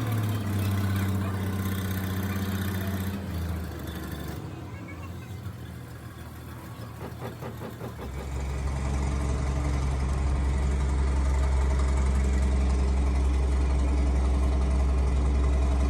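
Road roller's diesel engine running, falling to a quieter stretch of rapid ticking about four seconds in, then settling into a deep, steady drone from about eight seconds in.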